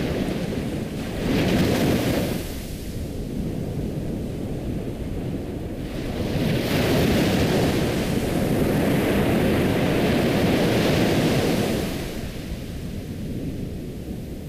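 Ocean surf: waves washing in and receding. One brief swell comes about a second in, and a longer one rises at about six seconds and dies back near twelve.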